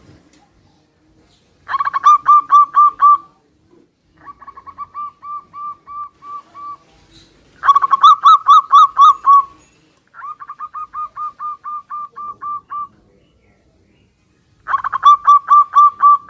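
Zebra doves calling back and forth: five bouts of rapid, stuttering cooing trills, each about two to three seconds long. The bouts alternate between louder and quieter, as if one dove answers another.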